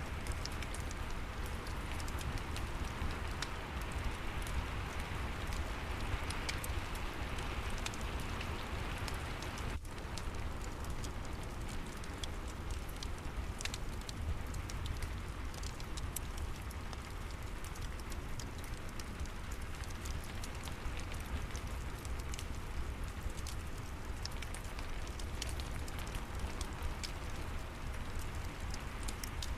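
Steady rain with a fireplace crackling: an even rushing hiss scattered with small pops and ticks. There is a momentary dropout about ten seconds in.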